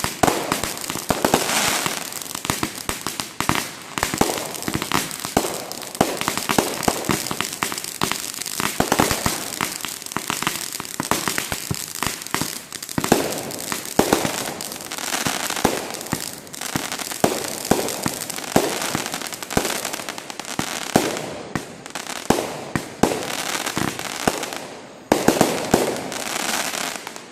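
Fireworks going off in a dense, continuous run of rapid pops and crackles, with louder bangs scattered through.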